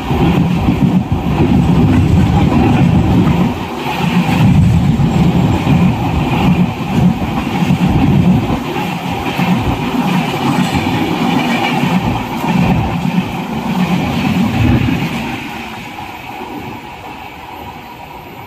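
Loud low rumble of a railway train, fading about fifteen seconds in.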